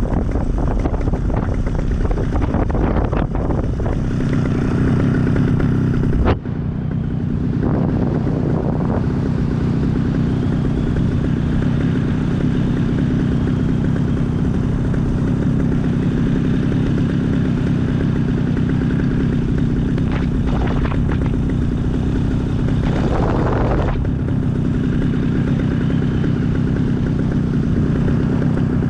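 Small aircraft engine running steadily, mixed with wind rushing past the microphone. A single sharp click about six seconds in.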